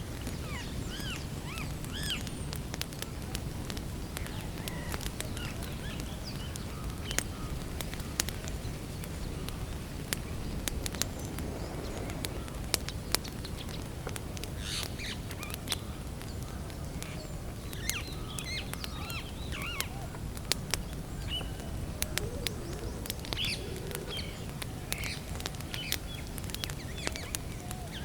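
Wood campfire crackling, with frequent sharp pops over a steady low rumble. Small birds chirp at intervals.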